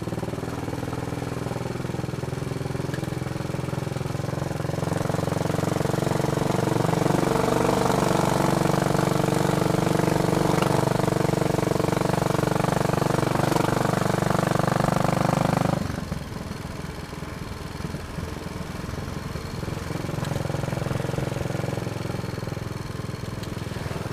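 Royal Enfield Bullet Machismo 500's single-cylinder four-stroke engine running under way, getting louder and higher in pitch from about five seconds in as it pulls. About two-thirds through the throttle shuts off suddenly and it runs on more quietly.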